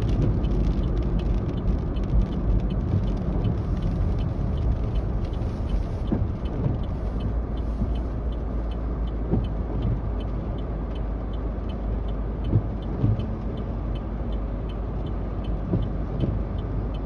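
A pickup truck's engine and road noise heard from inside the cab while driving, a steady low rumble. A faint, regular ticking runs over it.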